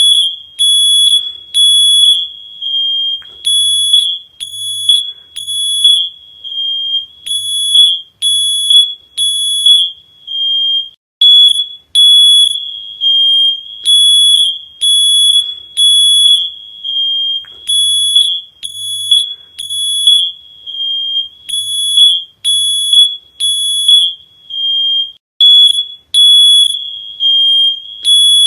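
Loud electronic alarm beeping at one high pitch, in repeated short beeps of about one to two a second with brief gaps between them.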